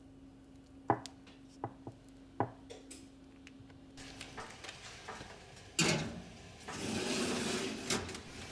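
Objects being handled: four light knocks of things set down, then rubbing and rustling, with one sharper knock near the middle and a longer rub near the end.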